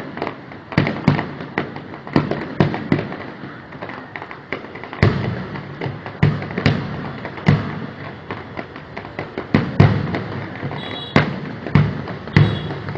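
Fireworks going off in a fast, irregular string of sharp bangs and dull thuds, with crackling between them.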